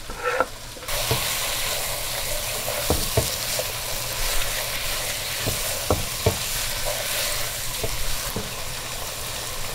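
Lamb and chopped celery leaves frying in a stew pot with a steady sizzling hiss that starts suddenly about a second in. Scattered short knocks come from the spoon as the mixture is stirred.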